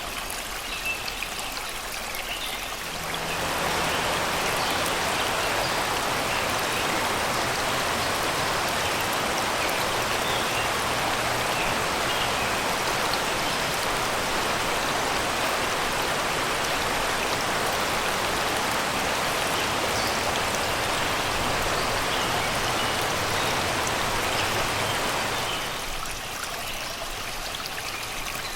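Shallow river water rushing and babbling over rocks in a steady stream. It grows louder and fuller about three seconds in and drops back to a softer flow near the end.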